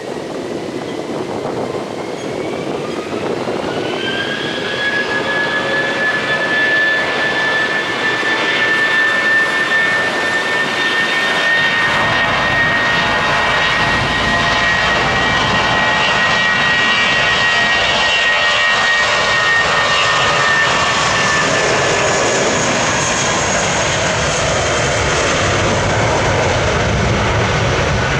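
Jet aircraft engines spooling up: a high whine rises over the first few seconds, then holds steady while a deep roar builds in under it. The whine sags a little near the end.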